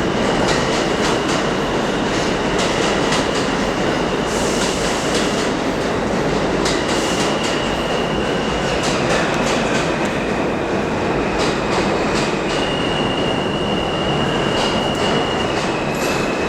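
Subway train running on the rails, a steady loud rumble with high wheel squeal that comes and goes and repeated clicking.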